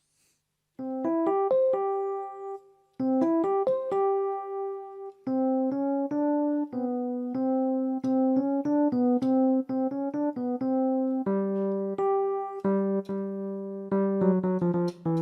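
Electric piano tone from a Casio keyboard with AiX sound, played as a short melody of single notes and small chords. It starts about a second in after a moment of silence, pauses briefly between phrases, and adds lower held notes in the second half before a quicker run of notes near the end.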